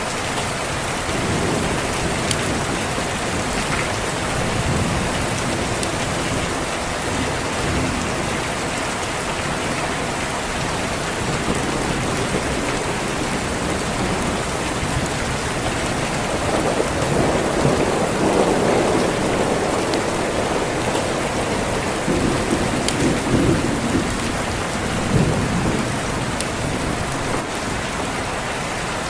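Steady rain falling, with rolling thunder rumbling low; the thunder swells about halfway through and again near the end.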